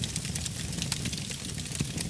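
Wood fire burning in a fireplace: many small, light crackles over a steady low rumble of the flames.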